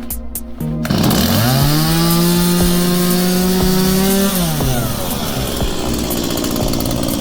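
Stihl chainsaw starting about a second in, revving up quickly, holding high revs for about three seconds, then dropping back to a steady idle.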